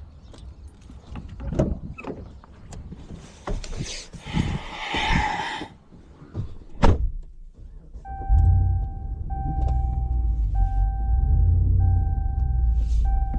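Scattered knocks and clatter with a sharp bang about seven seconds in. After that, a vehicle's engine starts running loud and low, and its backup alarm beeps steadily about once every second while it reverses.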